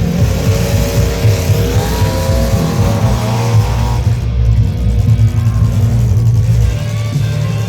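Truck engines running loud and rough, one revving up with its pitch climbing over the first few seconds before it drops away.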